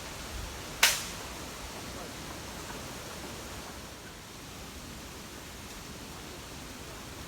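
Steady rushing noise of typhoon wind and rain, with one sharp click a little under a second in.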